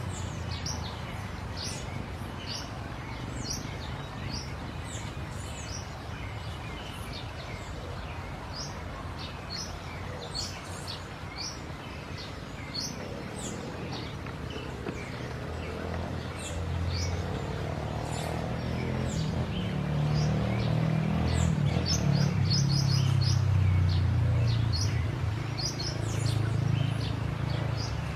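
Small birds chirping: many short, high chirps, each falling in pitch, repeated throughout. A low rumble grows louder in the second half.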